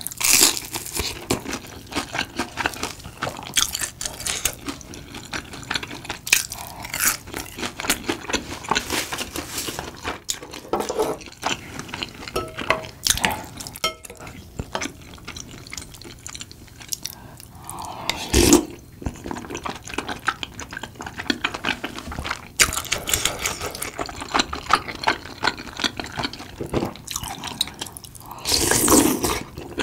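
Close-miked chewing of fried snacks, with many small crunches and crackles from a fried gimmari seaweed roll and wet chewing of rice cakes. A single sharper clack comes a little past halfway. Near the end comes a longer wet slurp of tteokbokki broth from a spoon.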